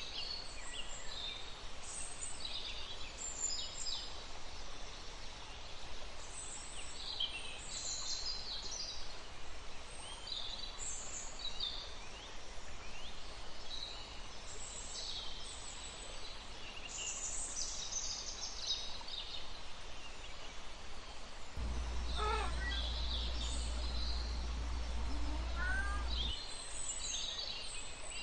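Many small birds chirping and singing in short, high notes throughout. For several seconds past the middle a steady low rumble comes in, like wind on the microphone.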